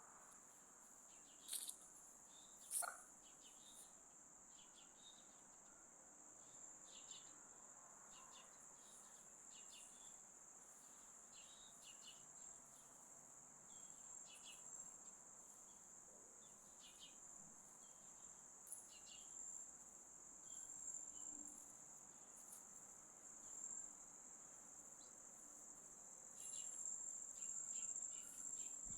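Insects trilling in a steady, high-pitched chorus, with many faint short chirps above it and two brief sharp sounds near the start.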